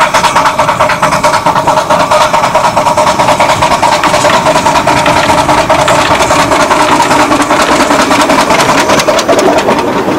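Miniature-railway locomotive working close by: a loud, steady, fast beat.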